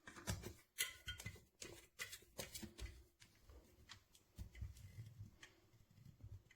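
Handling noise: a quick run of clicks, light knocks and rustles, densest in the first three seconds, then softer thumps and rustling.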